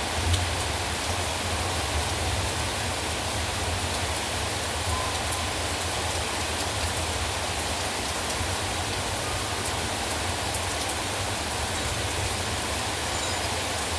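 Heavy rain falling steadily, with scattered close drop ticks and a low steady rumble underneath.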